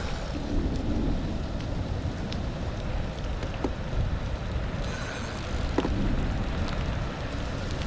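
Rain falling steadily, with a low rumble of wind on the microphone and scattered small ticks of drops.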